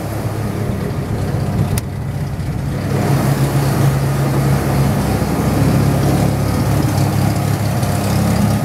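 Chevrolet Opala engine idling steadily, with a single sharp click about two seconds in; the engine grows louder from about three seconds in.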